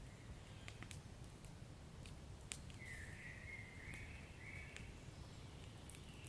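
Fireplace fire burning: a low steady rumble with scattered sharp crackles and pops, the loudest about two and a half seconds in, and a faint high hiss lasting about two seconds near the middle.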